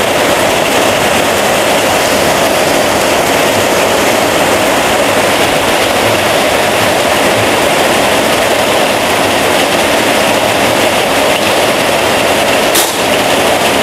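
Heavy rain pouring steadily, with a single sharp crack near the end from an FX Crown PCP air rifle being fired.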